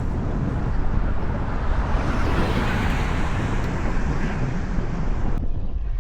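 Wind rushing over the microphone while riding a road bike, mixed with road traffic noise that swells and fades in the middle as a vehicle goes by. The high hiss cuts away sharply near the end.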